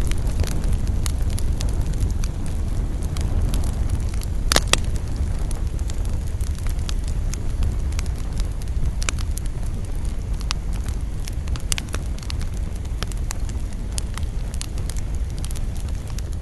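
Campfire burning: a steady low rumble with scattered crackles and pops from the burning wood, and one louder double pop about four and a half seconds in.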